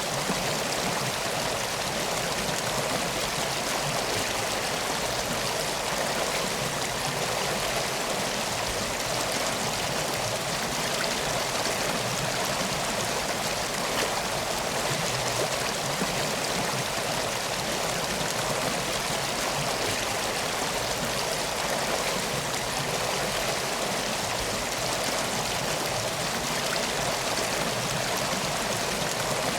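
Steady rushing of flowing water, an even unbroken hiss that keeps the same level throughout.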